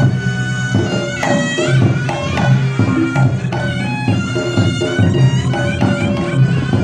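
Live reog ensemble music: the slompret, a nasal double-reed shawm, plays a wavering melody with gliding notes over drums and gong-chimes that keep up a repeated low pulse.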